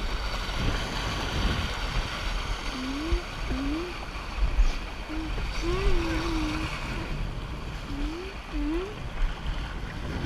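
Wind buffeting the microphone and water rushing and splashing along the hull of a small sailing dinghy under way in gusty wind. Several short rising voice-like tones come through in the middle.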